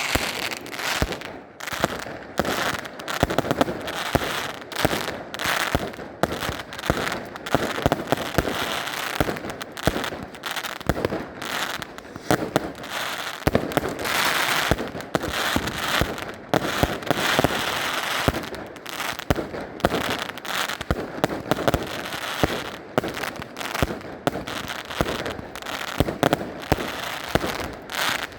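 Fireworks going off, most likely firework batteries: a dense, continuous string of bangs and crackles, many per second.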